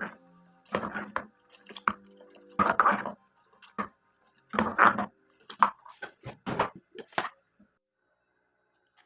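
Irregular kitchen handling sounds: a string of uneven clatters, knocks and rustles, stopping near the end.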